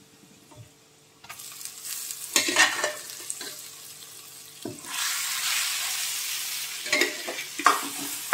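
Boiled amaranth greens going into hot oil and spices in a metal kadhai and sizzling, then a metal spatula stirring and scraping the pan. The sizzle starts about a second in and grows louder about five seconds in, with a few sharp spatula scrapes and knocks near the end.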